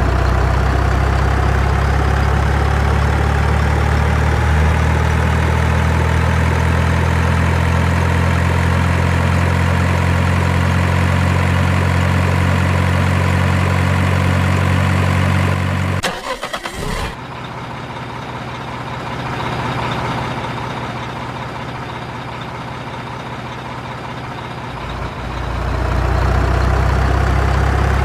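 Truck engine sound running steadily with a low hum. It cuts off about sixteen seconds in with a few clicks, runs quieter for several seconds, and comes back strongly near the end.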